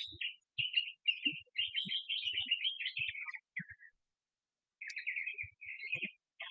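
Small songbirds chirping and twittering in quick runs of short, high notes, with a pause of nearly a second about four seconds in before the chirping resumes.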